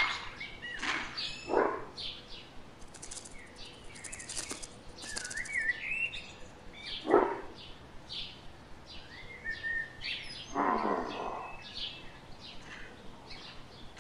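Birds chirping in short wavering calls, with scattered brief clicks and a short rush of noise near the end.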